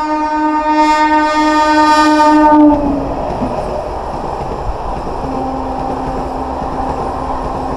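Electric MEMU train sounding a long horn that grows louder as it approaches and cuts off abruptly about three seconds in. Then comes the loud rushing rumble and wheel clatter of its coaches passing close by.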